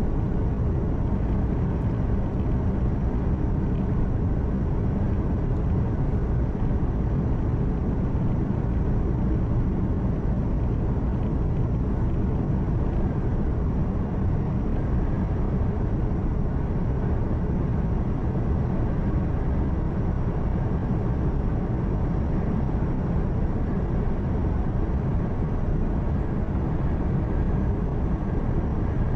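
Heavy truck's diesel engine humming steadily at cruising speed, heard from inside the cab together with the constant rumble of tyres and wind on the road.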